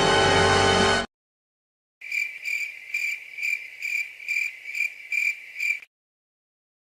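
Cricket-chirping sound effect: a steady high chirp repeating about twice a second for nearly four seconds, the comic cue for an awkward silence. A music clip cuts off about a second before it.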